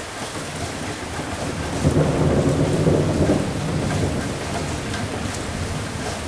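Steady rain with a roll of thunder that swells about two seconds in, rumbles for a second or two and dies away.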